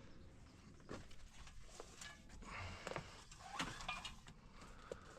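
Faint rustling and a few light taps and clicks as a drop cloth is spread out and handled on the floor.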